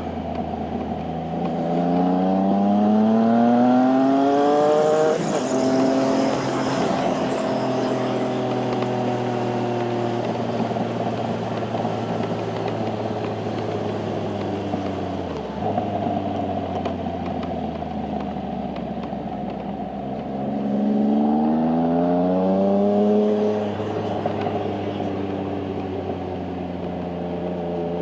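Triumph motorcycle engine heard from on board, holding a steady note between two hard accelerations. In each, the revs climb quickly, and after the first climb, about five seconds in, the pitch drops sharply as it changes gear. Wind rushes over the bike throughout.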